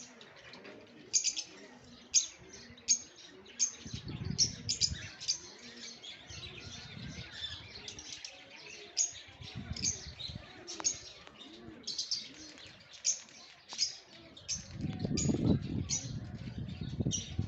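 Many birds chirping in quick, short, high calls that repeat over and over, with a low rumble coming in now and then and loudest near the end.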